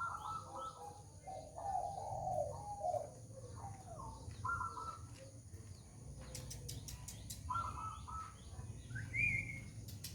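Orange-headed thrush (anis kembang) singing a varied song of short repeated phrases, with a rising whistled note near the end. A quick run of sharp ticks comes about six seconds in.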